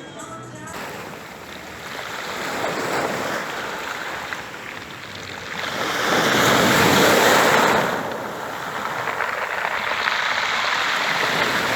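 Black Sea waves washing and surging, with the loudest surge about six seconds in, lasting a couple of seconds before it eases.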